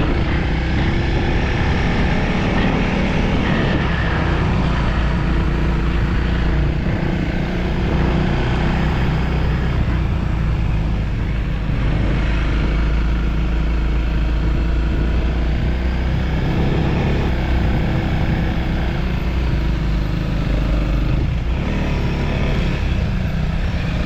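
Motorcycle engine running steadily under way, its level swelling slightly now and then.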